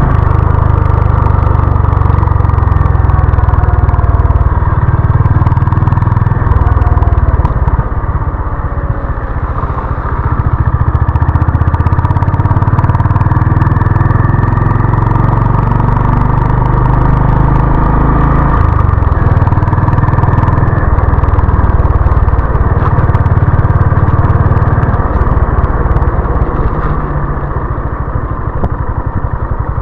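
Honda CB350 RS motorcycle's single-cylinder engine running under way, a steady deep exhaust note that eases off briefly about a third of the way in and again near the end.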